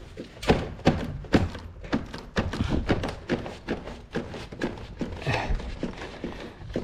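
Irregular knocks, taps and scraping from handling a wall-mounted air conditioner indoor unit and its piping while fitting it onto its mounting plate, a few sharp clicks and thunks a second.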